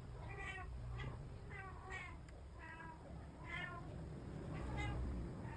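A cat meowing repeatedly, about five short calls, over a steady low hum.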